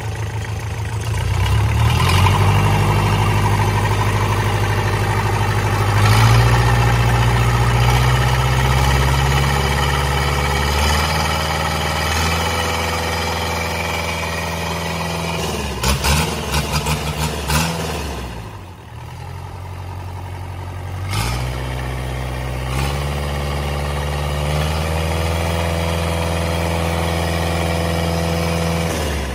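Isuzu 4JG2 four-cylinder diesel engine running, its speed raised and lowered several times. It picks up about two seconds in, revs quickly up and down around the middle, drops back briefly, then climbs again later on.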